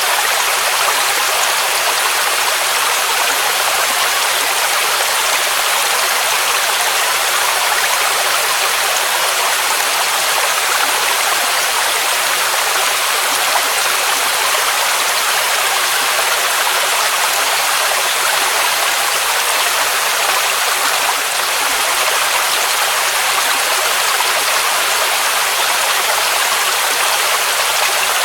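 Waterfall rushing steadily: an even, unbroken hiss of falling water, mostly high and mid pitched with almost no low rumble.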